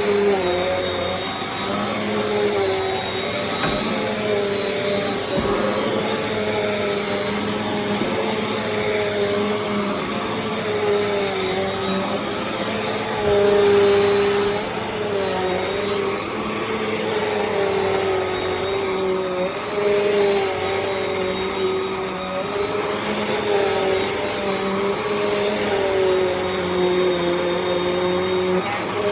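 Bissell CleanView Compact upright vacuum (model 3508) running continuously. Its motor whine wavers slightly in pitch over a rushing of air, with a thin high whistle held steady above it.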